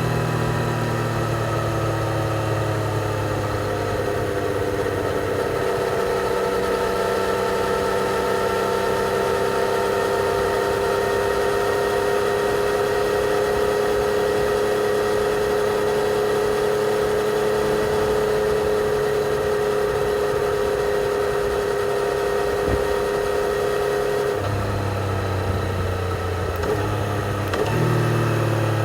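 A 2020 Yamaha XSR 900's 847 cc inline-three engine with stock exhaust, running on the road: the engine note falls in the first few seconds, holds steady for a long stretch at cruise, then changes pitch again about three-quarters of the way through and once more near the end.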